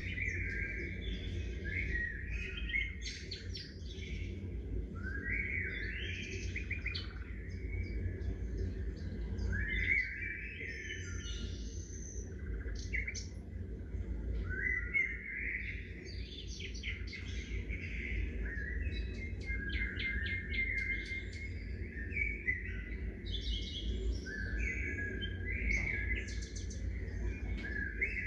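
Small songbirds chirping and singing, with short rising phrases and quick chirps coming in bouts every few seconds, over a steady low background rumble.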